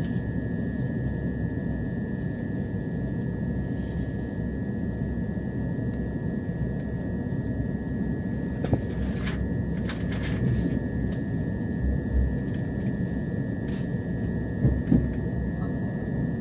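Steady rumble of a moving passenger train heard inside the carriage, with a constant high whine and scattered clicks and knocks from the wheels and running gear.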